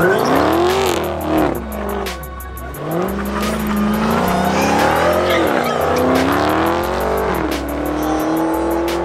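Car engine revving hard during a burnout, its pitch sweeping up and down several times and then held steady near the end. A rap beat with deep bass and quick hi-hat ticks runs underneath.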